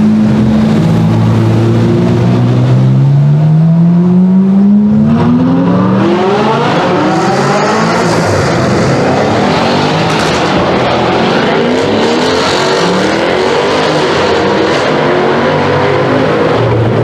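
High-performance car engine accelerating hard, its pitch climbing steadily over several seconds. It then runs at high revs, the pitch shifting up and down, and begins another climb near the end.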